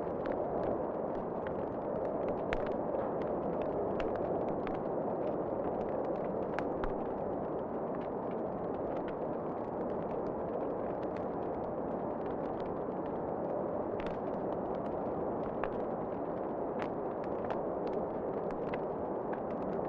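Fireplace fire crackling, with many small irregular pops and snaps over a steady rushing background.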